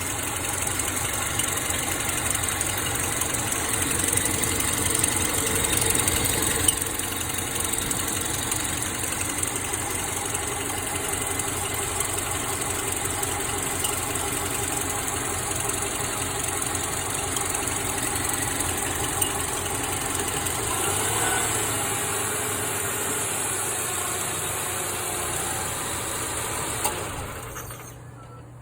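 2009 Subaru Forester's flat-four engine idling in Drive with the AC running, with a repeating chirp from the engine. About 20 seconds in, the transmission goes into Park and the chirp stops while the engine keeps idling, and the sound drops away near the end.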